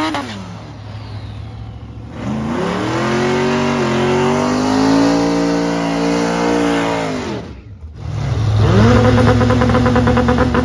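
Drag car engine doing a burnout. Revs fall to a lower idle, then the engine is held at high revs for about five seconds with the tyres spinning. It cuts out abruptly, then revs hard again with a rapid, even stutter.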